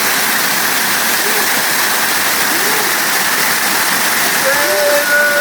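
Waterfall rushing steadily, a dense constant roar of falling water, with faint voices under it and a held, steady call for about a second near the end.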